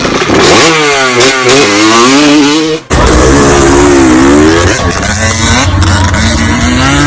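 Dirt bike engine running and being revved repeatedly, its pitch rising and falling, with a brief cut-out about three seconds in before the revving carries on.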